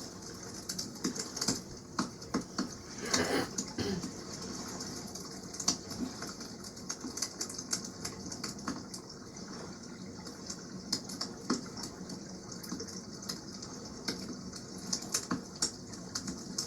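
Wood campfire crackling, with irregular sharp pops and snaps, over a steady wash of water. About three seconds in there is a louder hissing burst lasting roughly a second.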